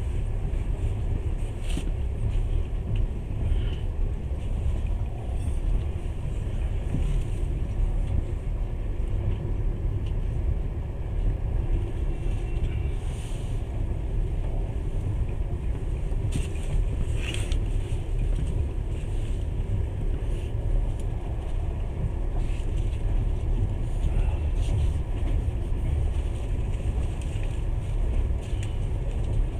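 Passenger train carriage running along the rails, heard from inside: a steady low rumble with a few faint clicks.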